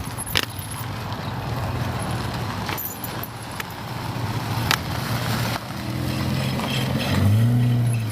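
A motor vehicle's engine runs steadily close by, then rises in pitch and grows louder near the end as it pulls away or accelerates. A few sharp clicks sound over it.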